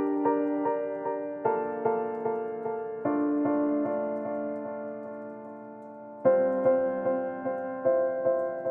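Soft background piano music: gentle repeated notes over sustained chords that change every second or two.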